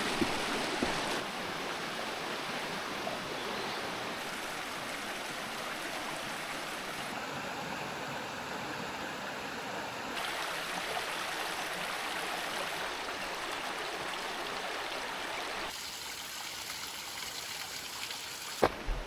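A mountain river flowing steadily, an even rushing murmur whose tone changes abruptly several times. A sharp knock or two sounds near the end.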